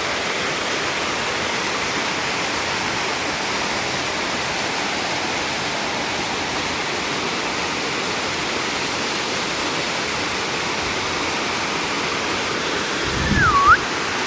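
Steady rush of water falling at a waterfall. Near the end comes a brief low rumble and a short whistle-like sound that dips in pitch and rises again.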